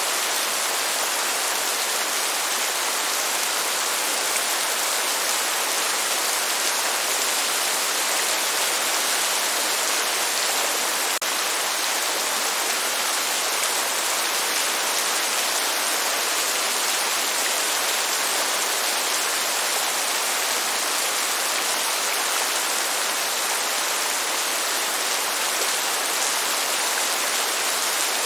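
Steady heavy rain, an even hiss with no thunder, broken only by one brief click a little before the middle.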